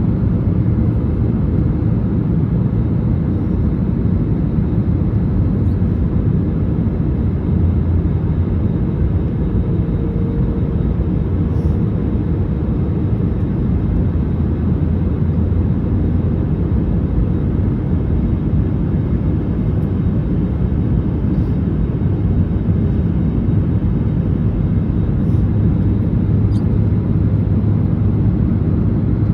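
Steady low roar inside the cabin of an Airbus A321neo in flight: noise from its Pratt & Whitney PW1100G geared turbofans and the airflow over the fuselage, with a faint steady hum above it.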